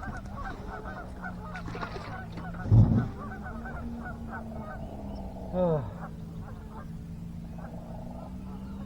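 A flock of birds calling over and over, over a steady low hum. A loud low thump about three seconds in, and a single falling call a little before six seconds.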